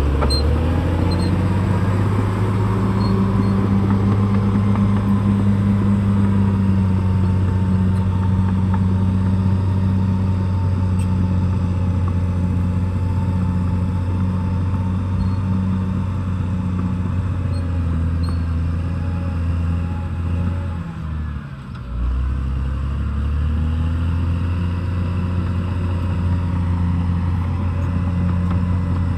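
Caterpillar D6R XL bulldozer's diesel engine running steadily at working speed. About two-thirds of the way through it briefly drops in pitch and loudness, then picks back up.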